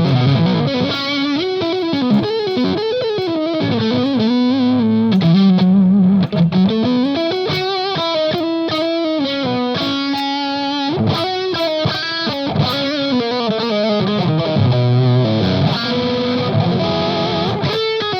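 Electric guitar on its neck humbucker played through an EarthQuaker Devices Palisades overdrive pedal on gain B, a thick, dirty distorted tone. A single-note lead line and riffs are played without pause, and the notes bend and glide in pitch.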